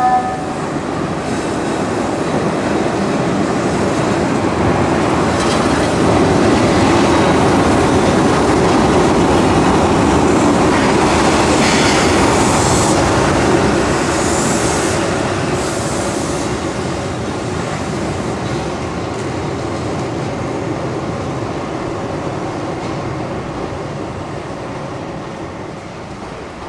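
Keihan 600 series two-car electric train passing on street-running track: a steady rumble of wheels and running gear that builds to a peak around the middle and then slowly fades, with a few brief high wheel squeals near the middle.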